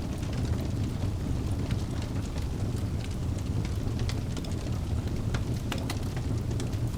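Wood fire burning in a fireplace: a steady low rumble of the flames with frequent sharp crackles and pops of the burning logs, coming thicker about four to six seconds in.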